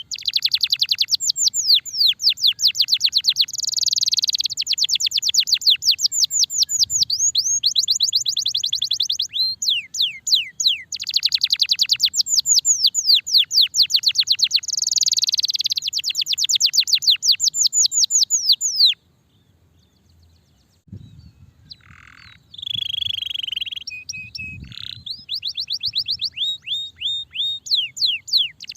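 Domestic canary singing long, fast trills of rapidly repeated falling notes, with a short break about two-thirds of the way in before shorter, varied phrases resume.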